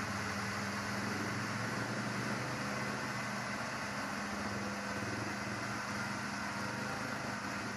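Off-road 4x4 vehicle's engine running steadily under load as it crawls through mud, a constant hum with no revving.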